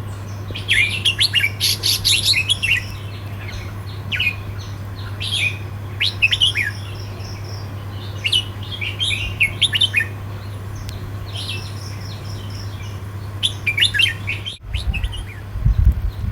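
Red-whiskered bulbul singing bursts of quick, sliding whistled phrases separated by short pauses, over a steady low hum. Near the end there is a brief break, then low rumbling noise.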